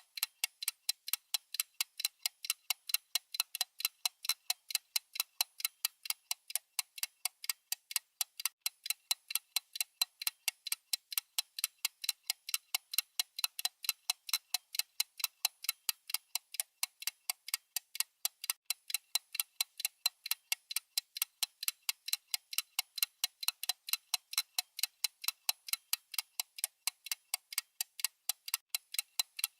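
Clock-ticking sound effect: a steady run of even, sharp ticks, several a second, thin and bright with no low end.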